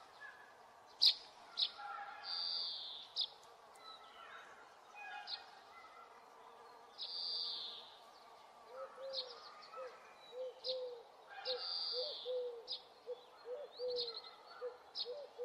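Birds chirping and twittering. From about nine seconds in, a run of short, low calls repeats evenly about twice a second.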